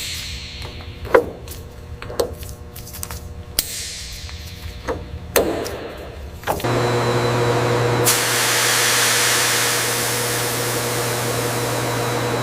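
Workshop tool sounds: a handful of sharp knocks, one every second or so, then about halfway through a power tool starts up with a steady hiss over a low hum.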